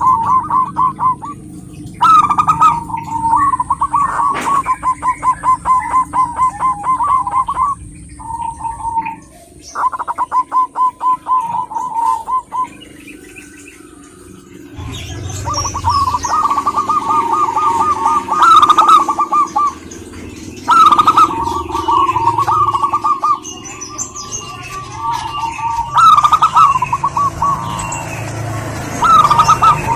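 Zebra dove (perkutut) singing: repeated phrases of rapid, pulsed cooing notes, each phrase lasting a second or a few seconds, with a pause of a couple of seconds about halfway through.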